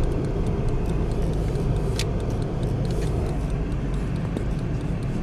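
Pickup truck's engine running at low speed under a heavy load of scrap, a steady low rumble, with scattered light ticks and one sharp click about two seconds in.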